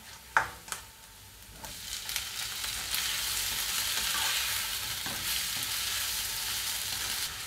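Chopped tomatoes frying in hot oil with onions in a nonstick wok, sizzling as they are stirred with a spatula. A single sharp knock comes just after the start, and the sizzle builds from about a second and a half in, then holds steady.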